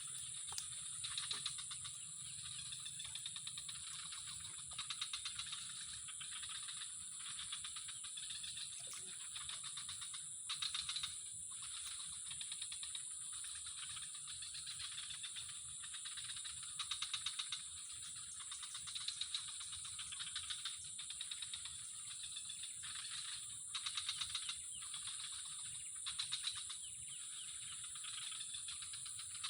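Steady high-pitched chorus of insects chirring, with rapid pulsing trills that swell and fade every second or two.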